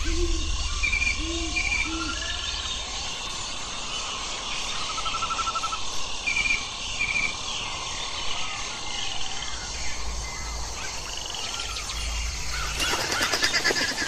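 Small birds chirping in short, repeated two-note phrases and a brief trill, over steady outdoor hiss and a low rumble at times; a rapid rattling run comes near the end.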